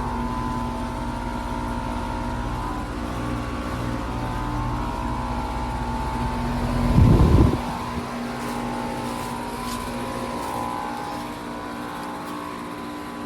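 Heat pump outdoor unit running in cooling mode: a steady compressor and condenser fan hum with a couple of sustained tones. About seven seconds in, a brief loud low rumble stands out above it.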